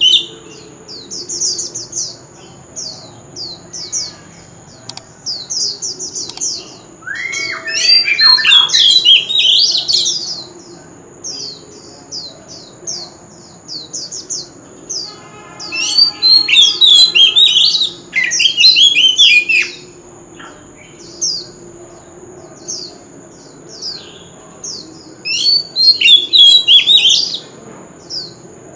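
Oriental magpie-robin singing: three loud bursts of fast, varied whistled phrases with shorter single notes between them, over a thin steady high tone.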